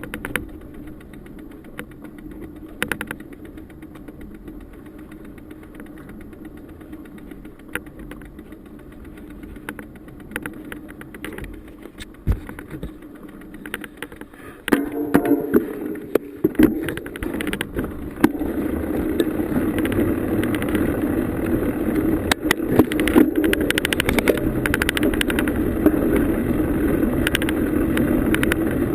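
Bicycle riding over a dirt forest trail, heard from a camera on the bike: a steady rumble of tyres with frequent rattles and clicks, growing louder and rougher about halfway through.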